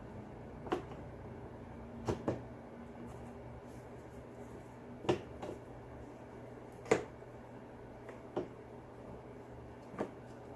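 Hard plastic leaf-blower housing parts knocking and clicking as they are handled and pushed together, about seven separate knocks spread out, the loudest about seven seconds in.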